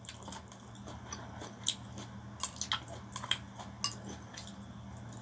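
Close-up chewing of pancit bihon (thin rice noodles), with many short wet mouth clicks scattered irregularly through the chewing. A steady low hum runs underneath.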